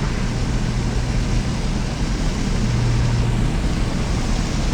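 Car engine with a new aftermarket exhaust droning steadily while driving, with road and wind noise, heard from inside the car.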